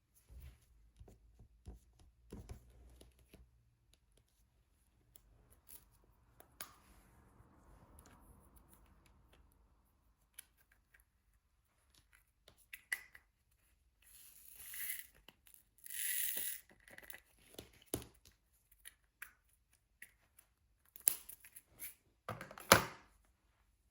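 Diamond painting handling sounds: scattered small clicks and taps of the drill pen and tools. Several short crinkly rustling bursts come about two thirds of the way through, and a sharper, louder one near the end.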